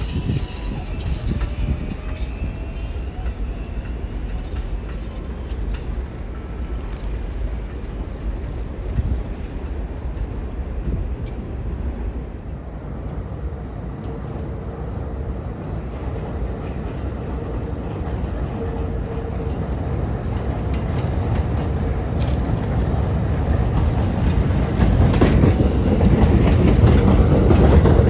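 R188 7 subway train running on the Flushing Line: a steady low rumble of wheels on rail that grows louder over the last several seconds as a train comes closer.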